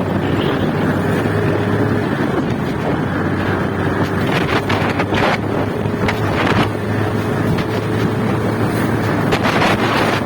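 Wind rushing over the microphone on a moving motorcycle, with the bike's engine running at a steady hum underneath.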